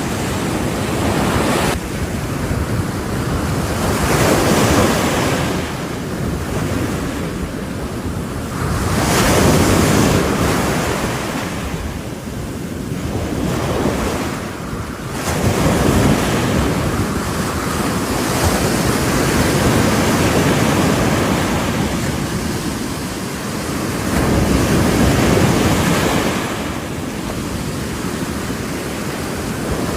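Ocean surf: waves breaking on the shore, the rush of water swelling and ebbing in surges about every five seconds.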